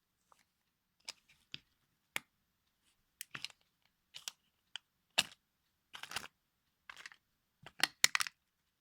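A toy car cracking and crunching under a high heel: a dozen or so sharp cracks at irregular intervals, with a loud one about five seconds in and a quick cluster of the loudest near the end.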